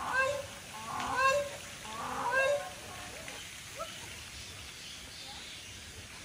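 A bird giving three short calls about a second apart, then only faint background.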